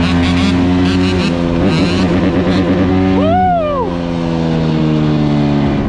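Dirt bike engines running steadily, their pitch sagging slowly, with a brief rise and fall in pitch about three seconds in.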